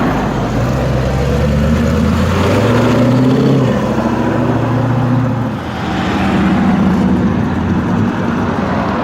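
Car engine accelerating, its pitch climbing over about five seconds before dropping off. A steadier engine note follows near the end.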